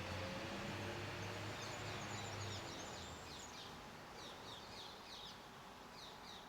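Small garden songbird singing a series of quick, high chirping phrases, starting about a second and a half in. Under the start, a low engine hum fades out over the first few seconds.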